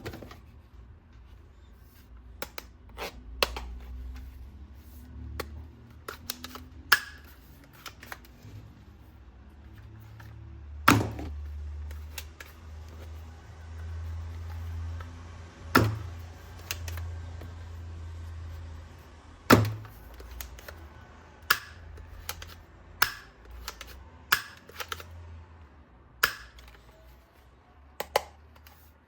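Irregular sharp clicks and knocks from toy guns and their parts being handled and fitted together, with a low rumble of handling noise; three knocks stand out as the loudest.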